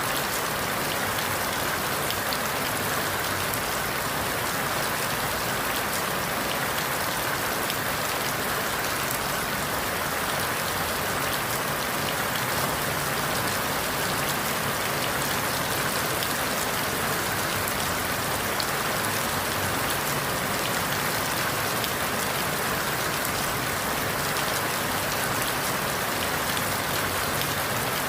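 Steady rain falling through forest leaves, an even hiss with scattered patter of drops.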